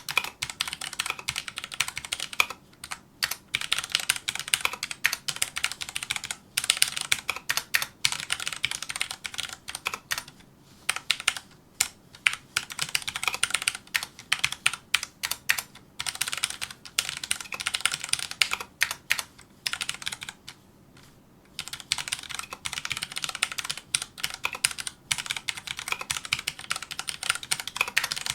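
Filco Majestouch2 mechanical keyboard with Cherry MX Brown switches being typed on fast and steadily, a dense patter of key clicks in runs broken by short pauses, the longest about twenty seconds in.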